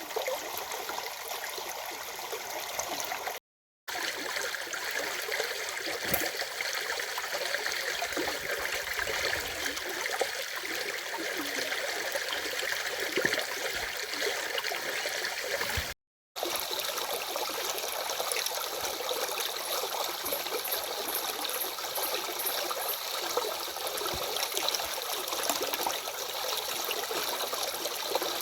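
Water of a stream flowing steadily, a continuous rushing babble. It cuts out to silence briefly twice, about three and a half seconds in and about sixteen seconds in.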